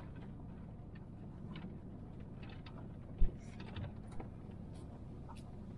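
Van driving slowly: a steady low rumble from inside the cab, with scattered small clicks and rattles and one thump about three seconds in.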